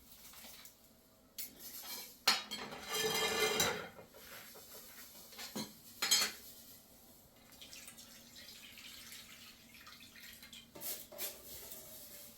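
Pots, pans and cutlery clattering and knocking in a kitchen, as separate clinks with a louder, rattling stretch of about a second near the three-second mark.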